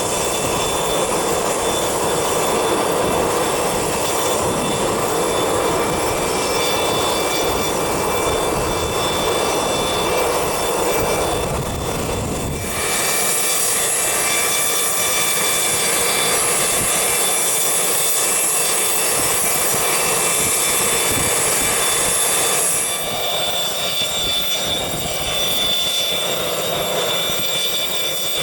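Business jet engines running, a steady high-pitched whine over a dense rush of noise. About halfway through the deep rumble drops away abruptly, leaving a hissier, higher whine that eases off near the end.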